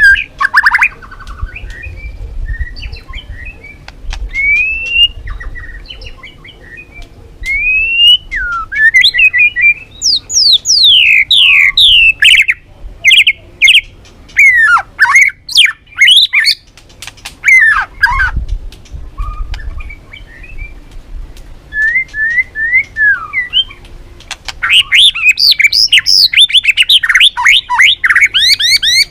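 White-rumped shama singing a varied song of clear whistled phrases, rising and falling notes, and fast runs of falling sweeps, with short pauses between bursts.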